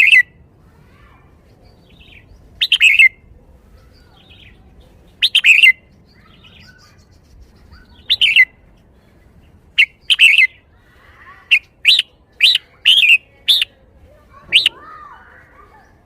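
Red-whiskered bulbul singing short, bright chirped phrases every few seconds, then a quicker run of phrases in the second half. This is the song style that Thai bulbul keepers call 'shaking the bottle'.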